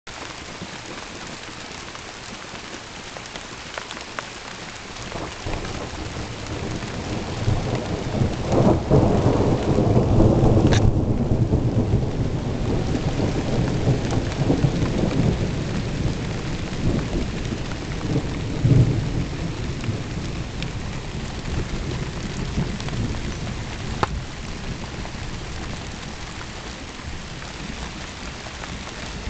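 Steady rain with a long roll of thunder that builds from about five seconds in, is loudest around ten seconds, then rumbles on, with another loud clap near nineteen seconds before it slowly dies away.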